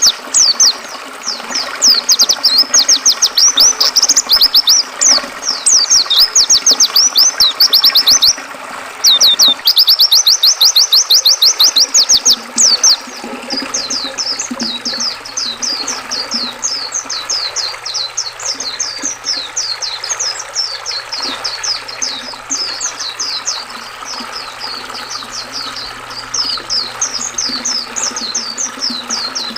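White-eye (pleci) song: rapid runs of high chirps in loud bursts, changing about halfway through to a softer, unbroken stream of chirps, over the steady rush of river water. A faint low hum joins about halfway through.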